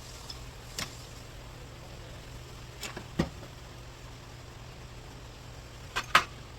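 A handful of short, sharp knocks and clicks from hand tools and loose parts being handled, over a steady low hum. The loudest double knock comes near the end.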